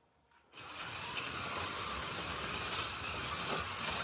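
Slot.it slot cars (Alfa Romeo T33s and a McLaren M8D) setting off together about half a second in: small electric motors whirring and guides and tyres running on the track, steady from then on as the race restarts.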